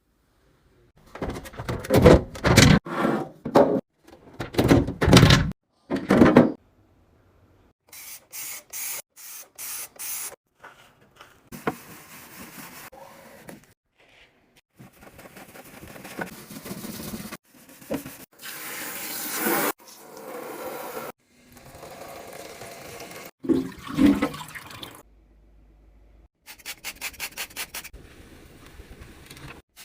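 Handling and cleaning sounds from stocking and cleaning a fridge: a few loud knocks and clunks, then rubbing and scrubbing with watery, pouring-like stretches, and rapid runs of sharp clicks twice.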